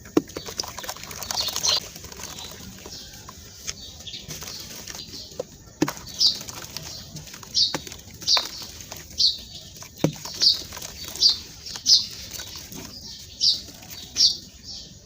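Crunchy clumps of sand-cement crumbling as they are crushed: a soft gritty rustle at first, then from about six seconds in a string of about ten short, sharp crunches, roughly one every three-quarters of a second.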